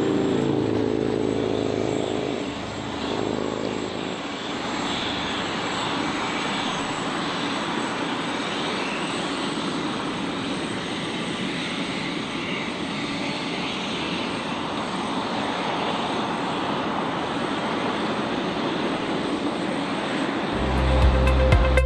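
Jet airliner engines running: a steady roar with a thin high whine over it. Music comes in near the end.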